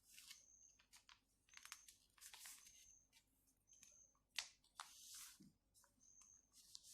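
Faint rustling and creasing of a sheet of white A4 paper being folded by hand as a corner is folded to the middle, in short, scattered crinkles with one sharper crackle about four and a half seconds in.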